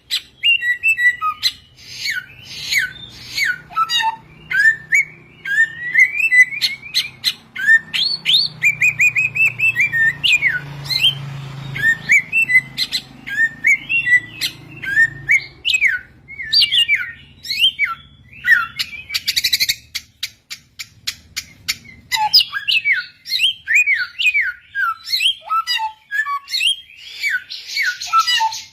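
Samyong bird singing: a rapid, continuous run of sharp chirps and downward-slurred whistles, broken here and there by fast trills and a short buzzy rattle a little past the middle.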